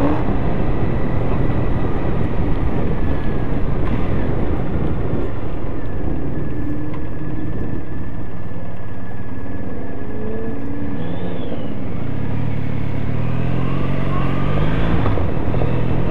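Triumph Bonneville T100's air-cooled parallel-twin engine and exhaust, heard from the rider's seat over the rush of wind on the microphone. The engine eases off through the middle, then climbs in revs again near the end.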